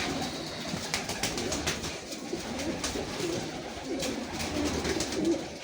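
Several domestic pigeons cooing, with scattered sharp clicks and scuffles among them.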